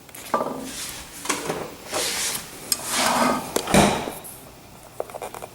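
A run of knocks, rubs and clatters as things are handled and set down on a kitchen surface, with the loudest knock about four seconds in.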